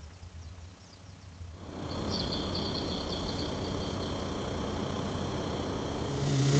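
A truck engine running: a steady rumbling noise that sets in about two seconds in, with high chirping over it.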